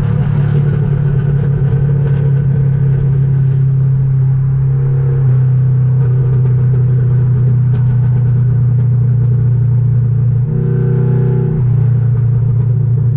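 Car engine running with a steady low drone, its pitch shifting about five seconds in and again around ten and eleven seconds in.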